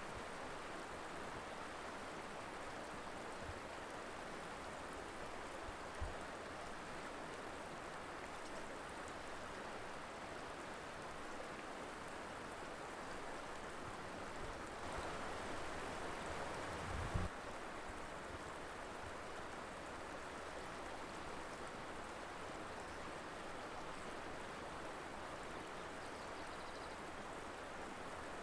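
Colorado River water rushing steadily over its bed, an even flowing hiss. Two brief low thumps break in, one about six seconds in and another around seventeen seconds, the flow growing a little louder just before the second.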